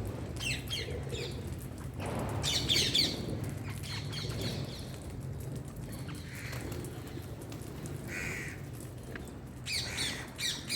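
Pet parrot chirping and squawking in short clusters of quick, high, falling calls: about a second in, around three seconds in, and again near the end, with softer single calls in between.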